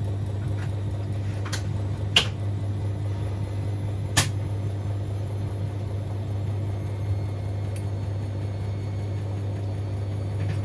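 Siemens Extraklasse XLs 140 A front-loading washing machine running mid-cycle on a 60°C cotton wash: a steady low hum, with two sharp clicks about two and four seconds in.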